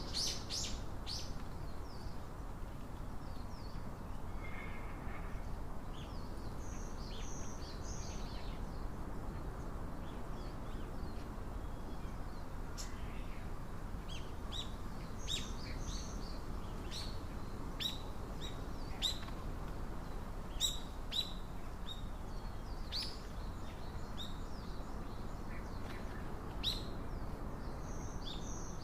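Small birds giving short, sharp chip notes, a few at the start and many more through the second half, over a steady low outdoor hiss.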